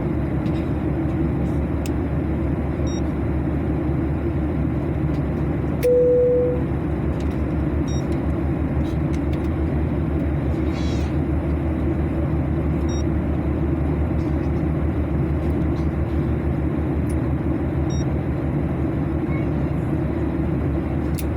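Steady airliner cabin noise, a deep rumble of engines and airflow. A single short beep comes about six seconds in, and faint high ticks recur about every five seconds.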